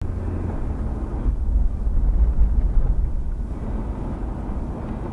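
Low, steady rumble of a moving car, road and engine noise, swelling slightly a couple of seconds in, with no crash impact.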